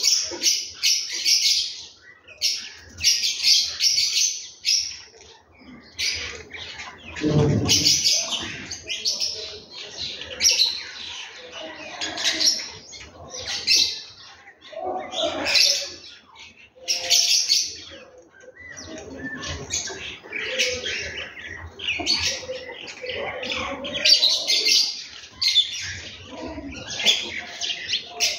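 Small birds chirping in a busy, continuous chatter of short repeated calls, with a brief low sound about seven seconds in.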